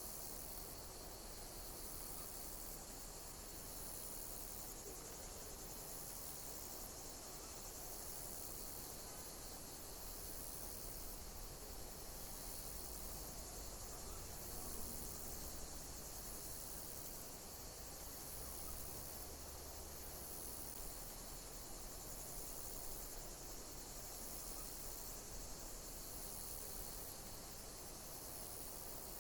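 Insects chirping, very high-pitched and pulsing roughly once a second, over a steady background hiss.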